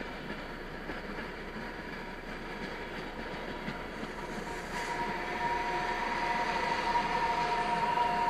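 Regional passenger train rolling past over a level crossing, a steady rolling noise that grows louder about halfway through, when a steady high tone sets in over it.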